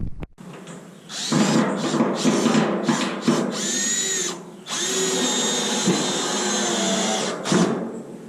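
Cordless drill running in two long bursts: the first with its speed rising and falling, the second a steady high whine that stops near the end.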